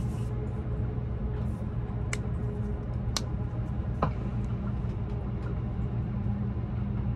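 Steady low rumble inside the passenger cabin of an E353-series limited express train, with a few sharp clicks about two, three and four seconds in.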